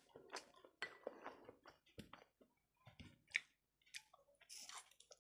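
A person chewing a mouthful of rice and curry eaten by hand, close to a clip-on microphone: soft wet clicks and mouth smacks, the sharpest a little past three seconds in, with a short hissing noise near the end.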